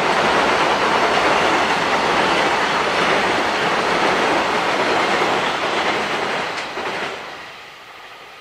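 Container freight wagons rolling over a steel girder railway bridge, a loud, steady rumble of wheels on rail. The noise dies away about seven seconds in as the last wagon clears the bridge.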